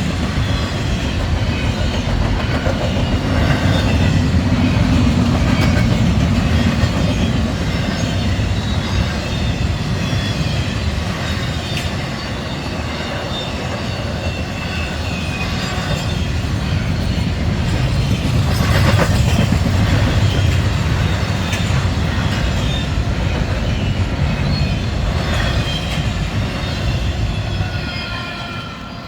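Double-stack intermodal freight cars of a Norfolk Southern train rolling past: a steady rumble with wheels clicking over rail joints and flanges squealing in thin high tones. The sound drops off near the end.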